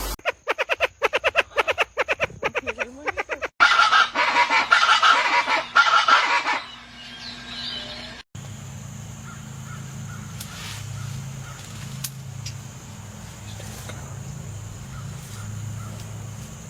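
Birds calling, in several stretches joined together: first a fast run of repeated calls, then a loud burst of dense chattering calls, then, after an abrupt change about halfway, a quieter stretch with a low hum and a few faint calls.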